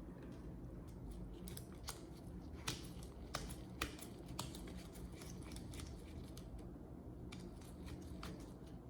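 Irregular sharp snips and clicks of hand tools at work, about a dozen over eight seconds, over a low steady hum.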